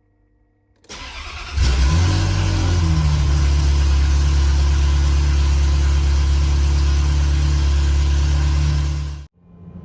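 Ferrari F355's V8 engine and exhaust come in about a second in and swell briefly. They then hold one steady engine note until it cuts off suddenly near the end.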